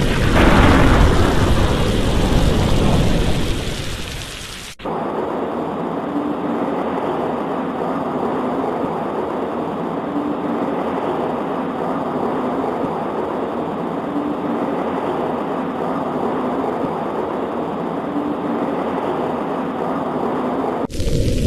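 A loud thunder rumble rolls in at the start and dies away over about four seconds under heavy rain. Then the sound switches abruptly to a steady, duller rain hiss, which switches back to the fuller rain sound near the end.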